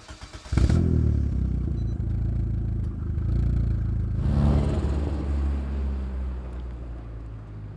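Turbocharged Fiat Panda 100HP engine with a TD04 turbo being started: a starter-motor whine that catches about half a second in, then the engine running at idle, with a louder burst of revving about four seconds in before settling back.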